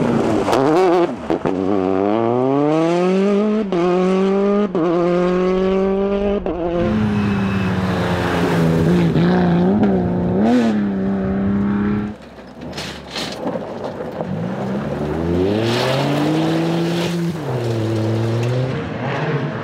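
Rally car engine accelerating hard, its pitch climbing through several quick upshifts, then holding high revs with brief blips. It falls away suddenly about twelve seconds in, and a second run of hard revving comes near the end.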